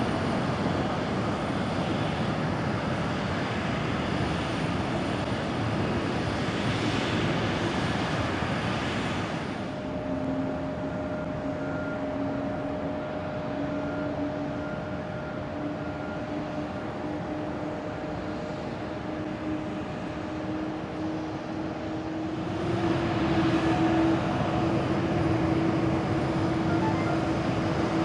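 Jet airliner engines at an airport: a broad rush of jet noise that cuts off suddenly about a third of the way in, giving way to a quieter steady engine hum that slowly rises in pitch, then louder jet noise with a steady hum again near the end.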